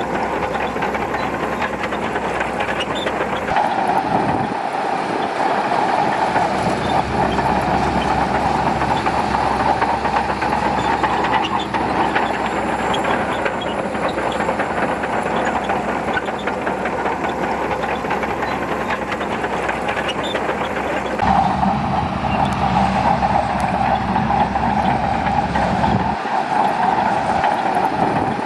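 Shantui DH17C2 bulldozer working, its diesel engine running steadily under a constant clatter of the crawler tracks. The sound changes abruptly twice, a few seconds in and again about three quarters of the way through.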